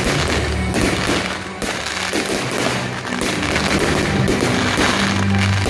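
Fireworks display: a dense run of aerial shell bangs and crackling, with music playing underneath.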